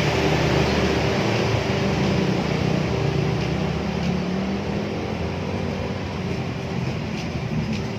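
Train passing: a steady engine drone over a rumble, slowly fading, with a few faint clicks near the end.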